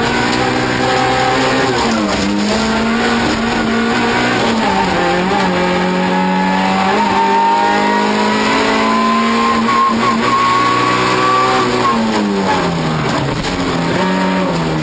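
Toyota Corolla rallycross car's engine at racing speed, heard from inside the cabin, its pitch rising and falling with throttle and gear changes. The pitch drops about two seconds in, climbs slowly through the middle, then falls sharply near the end as the car slows and picks up again.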